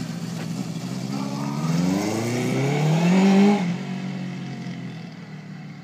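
Honda CB750 inline-four through a 4-into-1 exhaust, accelerating hard: the engine note climbs in pitch for about two seconds, peaks about three seconds in, then falls away and fades as the bike moves off.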